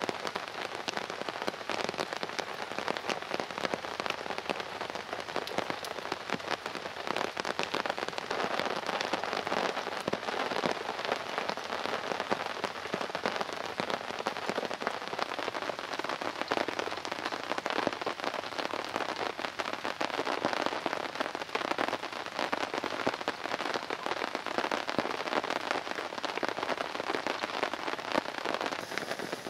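Heavy rain falling steadily on a tarp shelter and the pine-needle forest floor, a dense spatter of individual drops with no let-up.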